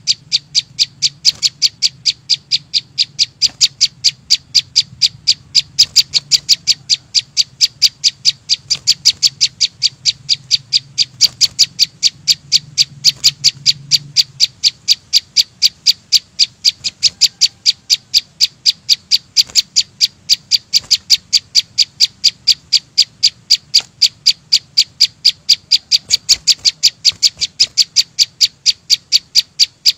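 A small Vietnamese songbird sold as 'chim sâu xanh' repeating one sharp, high chip note over and over, about four to five notes a second, without a break.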